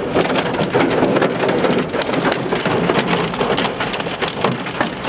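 Hailstones pelting the car's roof and windshield, heard from inside the cabin: a dense, steady clatter of many hard hits.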